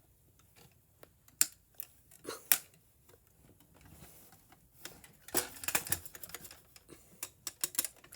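Sharp clicks and taps of hard plastic being handled as a diecast model car is worked loose from its packaging, with a quick run of rattling clicks about five seconds in and another near the end.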